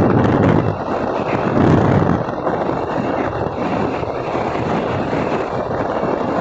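A truck running by, its engine and road noise loudest in the first two seconds, then holding steady.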